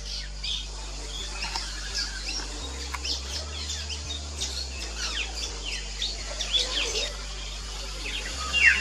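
Fairy martins calling: many short, high chirps and twitters, with a few louder down-slurred calls near the end.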